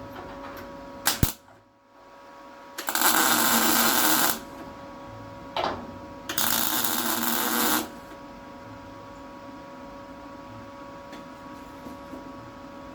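Two tack welds made a few seconds apart, each about a second and a half of steady welding crackle, over a steady background hum.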